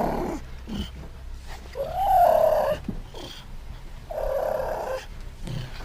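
Cougar (mountain lion) vocalizing: a series of short calls, each under a second long. The loudest comes about two seconds in, with a pitch that rises and then falls.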